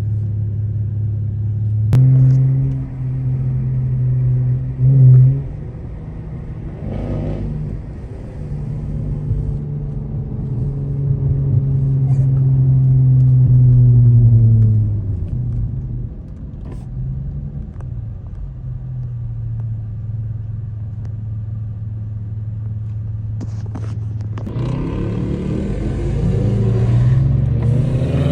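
Dodge Scat Pack's V8 running loud through its exhaust, the engine note rising and falling as it is driven and revved, with a climb to a peak that drops off sharply about halfway through and another rise near the end.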